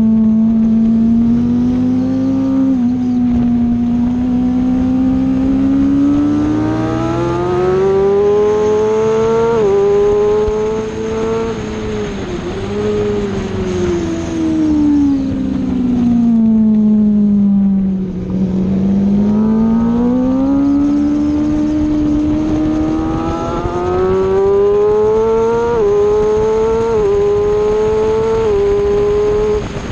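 Aprilia Tuono motorcycle engine at racing speed, heard from on board. It accelerates up through the gears with quick upshifts at about ten and twelve seconds in. The revs then fall steadily for several seconds as the bike slows for a corner, and it accelerates again with three rapid upshifts near the end.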